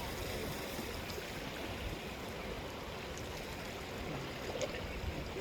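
Sea water washing steadily, a constant rushing noise with no distinct events.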